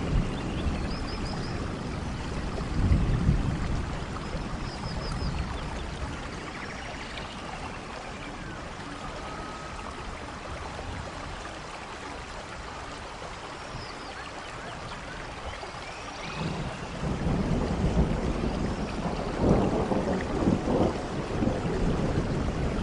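Rainforest ambience: steady rain with low rumbles of thunder, one about three seconds in and a longer rolling stretch from about two-thirds of the way through. Short bird chirps and trills come and go above the rain.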